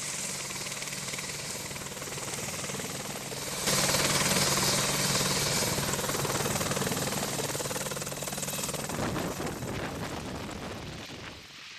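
Helicopter turbine and rotors running steadily, with a low hum under a broad rushing hiss. It jumps suddenly louder about a third of the way in and fades toward the end.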